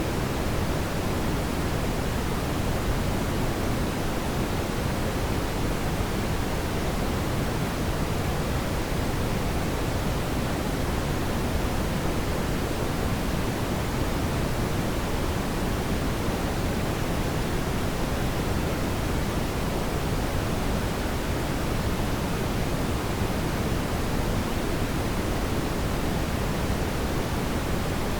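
Steady brown noise: an even, unchanging hiss weighted toward the low end, with no other sounds.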